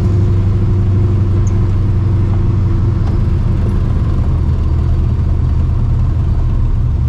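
Straight-piped, Procharged 1999 Mustang GT's built 5.4-litre V8 running steadily at low revs, a loud, even exhaust rumble with no revving.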